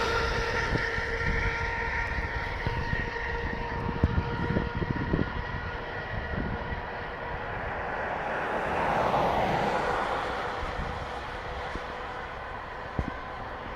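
Ambulance passing on a call: a steady multi-tone horn blast fading out, then engine and tyre noise that rises and falls as the vehicle goes by.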